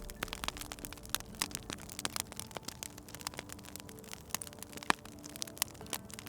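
Wood fire crackling, with irregular sharp pops and snaps several times a second over a soft hiss; one louder pop about five seconds in. Faint held tones of soft background music run underneath.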